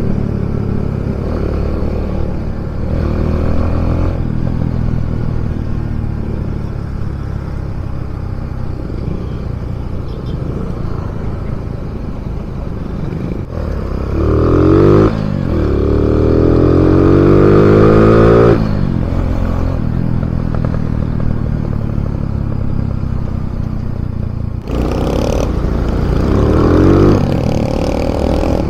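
Kawasaki W175's single-cylinder engine, breathing through a size 30 flat-slide carburetor, on the move: it runs steadily for about the first half, then revs up through the gears. The pitch climbs and drops back at each gear change, twice about halfway through and once more near the end.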